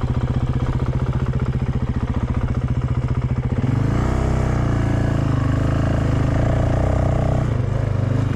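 Honda CRF450X dirt bike's single-cylinder four-stroke engine running at low revs with an even pulse, then rising in pitch about four seconds in and holding at higher revs.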